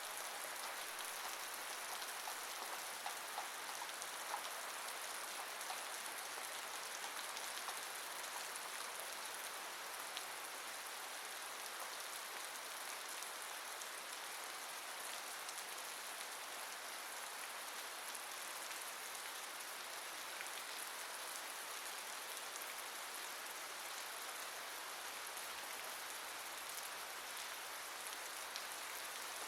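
Steady rainfall, an even hiss with scattered drop ticks in the first few seconds.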